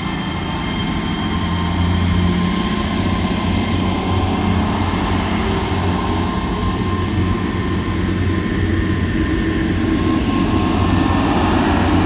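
A train running past or pulling away, with a steady engine drone and a thin, high whine that rises slowly in pitch.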